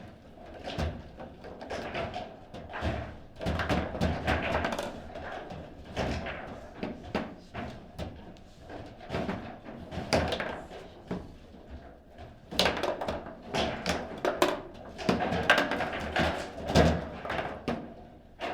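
Table football game in play: irregular, rapid knocks and thuds as the ball is struck by the rod-mounted players and hits the table's walls, with the rods clacking.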